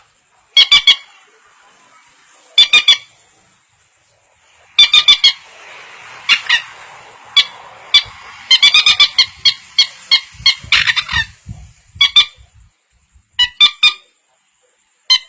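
Manual bird caller sounded to imitate the call of a peruk/mandar rail, giving short bursts of three or four rapid, sharp notes, repeated every second or two.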